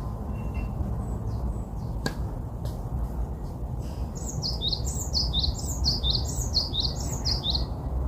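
A songbird singing a fast run of repeated high, downward-sliding notes, about four a second, starting about halfway through and lasting some three and a half seconds, after a few brief scattered chirps. A steady low rumble runs underneath.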